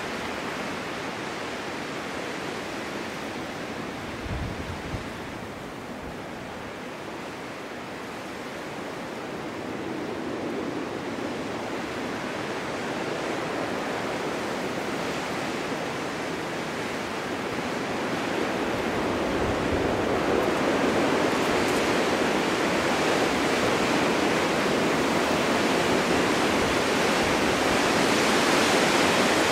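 Snowstorm wind blowing through snow-covered forest as a steady rushing noise. It eases a few seconds in, then builds in gusts and is loudest over the last ten seconds. There are two brief low thumps.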